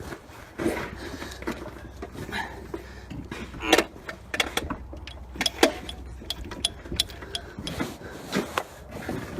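Scattered metal clicks and knocks from hands-on work lifting and positioning an engine on its hoist and mounts, with two louder clanks in the middle, over a low steady hum.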